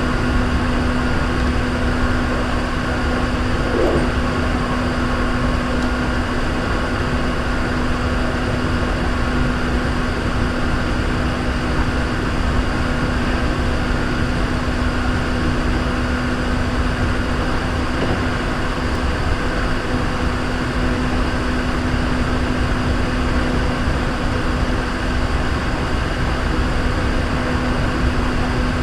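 Hankyu 3300 series electric commuter train running at speed between stations, heard from inside the car: an even rumble of wheels on rail under a steady hum.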